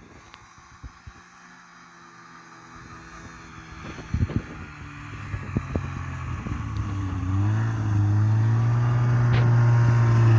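Snowmobile engine running and growing steadily louder, its pitch dipping and rising again about two-thirds of the way in. A few sharp knocks sound about four seconds in.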